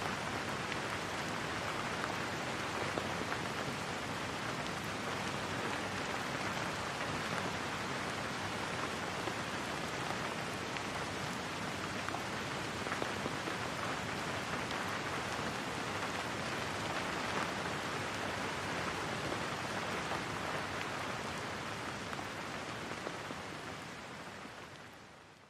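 Steady rain falling, a dense even patter, fading out over the last few seconds.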